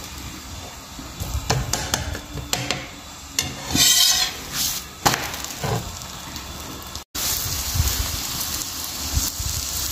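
A paratha sizzling in ghee on a flat pan, with a metal spatula tapping and scraping against the pan as the paratha is pressed and turned. A brief burst of sizzling comes about four seconds in.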